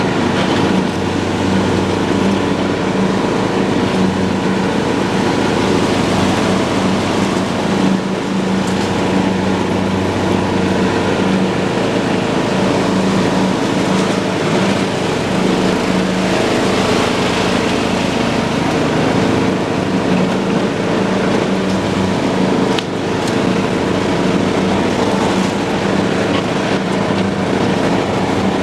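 John Deere lawn tractor running steadily while mowing grass, its engine holding an even pitch with the cutting deck's whir over it.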